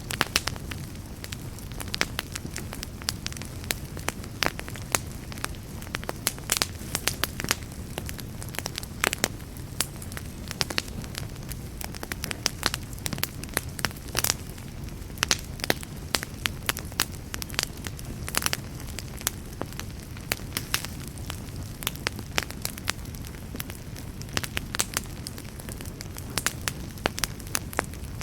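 Wood campfire burning, with irregular sharp crackles and pops several times a second over a steady low rumble of the flames.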